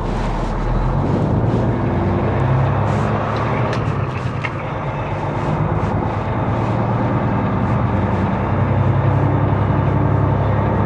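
Semi truck's diesel engine running at low speed, heard from inside the cab as the rig pulls slowly into a lot; the engine note grows a little louder about eight seconds in.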